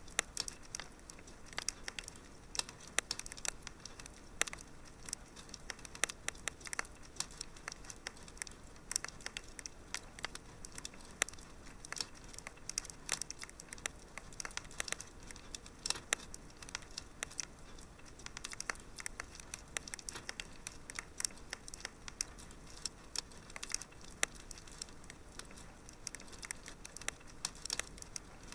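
Wood fire in a fireplace crackling: many irregular sharp pops and snaps over a faint steady hiss.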